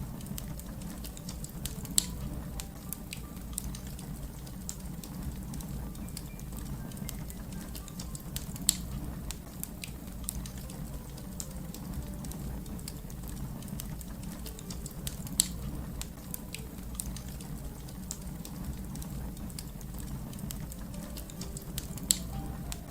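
Wood fire crackling over a steady low rumble, with many small ticks and four sharp, loud pops spaced several seconds apart.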